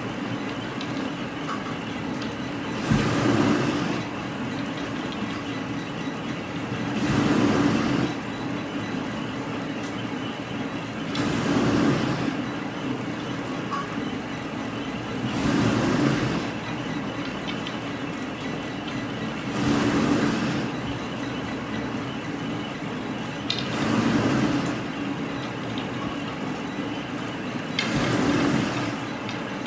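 Plywood factory machinery running steadily, with a louder rushing surge about every four seconds as the machine repeats its cycle.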